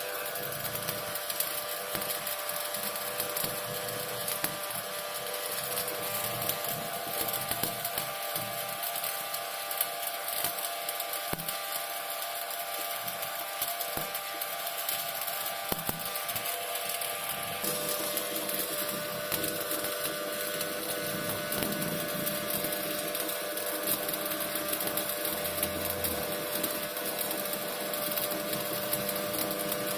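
Shielded metal arc welding on a carbon steel pipe: the stick electrode's arc crackles and sizzles steadily as a weld pass is laid, its texture shifting a little past the middle.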